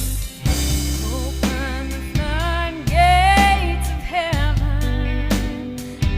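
A song: a sung vocal melody over a band with drum kit, bass and guitar.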